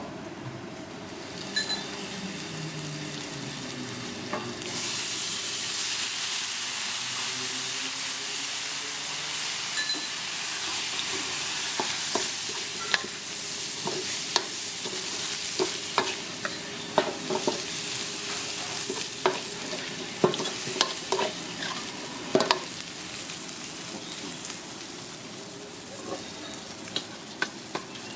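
Food sizzling in a hot wok. The sizzle jumps up loudly about four and a half seconds in, as something is added to the hot oil, and runs on, with a metal spatula clanking and scraping against the wok many times through the middle.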